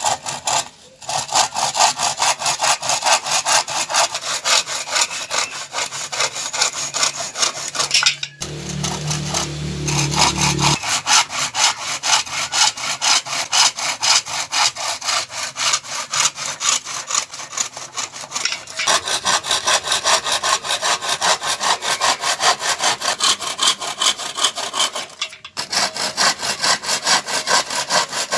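Handsaw cutting wood in quick, even back-and-forth strokes, stopping briefly about 8 and 25 seconds in.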